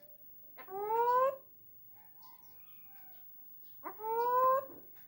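Pet cockatoo giving two drawn-out calls, each rising in pitch and lasting under a second, about three seconds apart.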